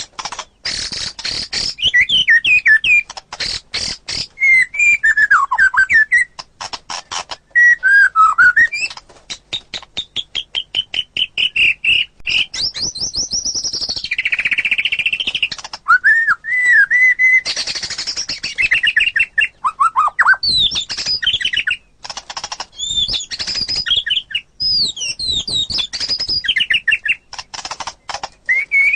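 White-rumped shama (murai batu) singing a long, varied song: clear whistled phrases and glides, runs of fast repeated notes, and a few harsher, buzzy notes.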